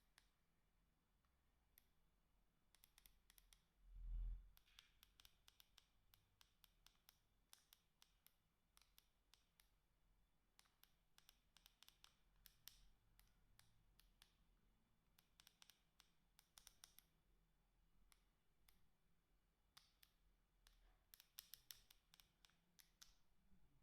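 Faint clicking of a Sagem SG322i mobile phone's keypad buttons being pressed, singly and in quick runs, with one low thump about four seconds in.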